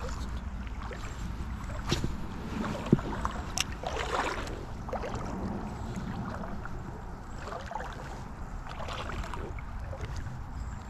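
Creek water sloshing and splashing around the legs of a wading angler, with a louder slosh about four seconds in, a few sharp clicks and a low steady rumble underneath.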